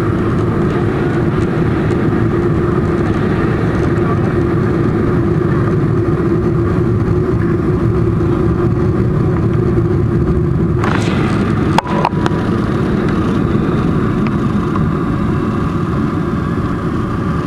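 Steady engine and airframe noise of a Boeing 747-400 during its landing at Miami, heard from inside the cabin: a constant rumble with a steady hum. A sharp click comes about two-thirds of the way through.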